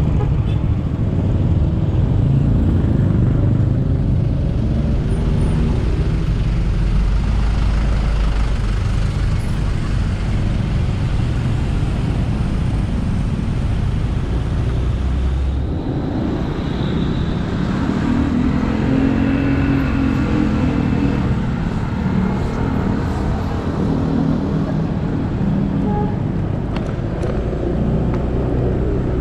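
Motorcycle engine running steadily under the rider, mixed with wind and road noise and surrounding traffic. The engine pitch rises and falls for a few seconds about two-thirds of the way through.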